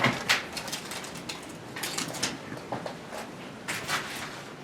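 Scattered light knocks and scrapes of things being handled in a small room, a handful of short clicks over faint background noise.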